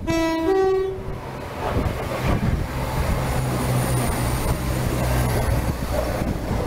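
Diesel multiple unit sounding a two-tone horn, low note then higher, as it approaches, then running through at speed: wheels rumbling and clattering over the track and the engines humming steadily as it passes close by, easing off near the end.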